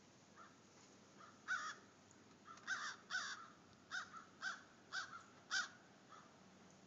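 A bird calling outdoors: a series of about seven short, loud calls, roughly two a second, starting about a second and a half in.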